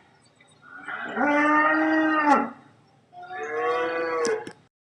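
Dairy cow mooing twice, two long, steady moos, each dropping in pitch as it ends.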